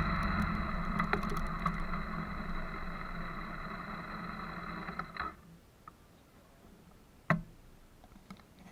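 Motorcycle engine running steadily and fading away, then cutting off abruptly about five seconds in. A single sharp click comes near the end.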